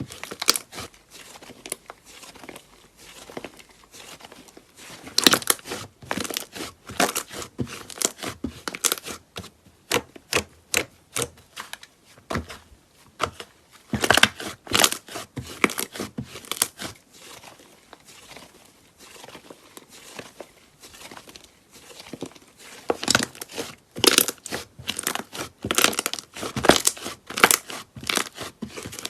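Slime being pressed and pulled by hand, giving a dense run of irregular crackling snaps and pops. The snaps come in busier clusters, around a quarter, half and four-fifths of the way through.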